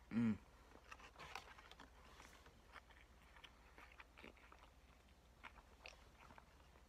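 A person chewing a mouthful of Big Mac burger, with faint mouth clicks and soft crunches. A short hummed "mm" just after the start is the loudest sound.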